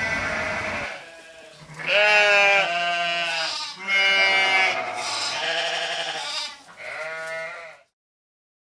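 An animal calling: a run of long, wavering, bleat-like cries with short breaks between them. The cries cut off abruptly near the end.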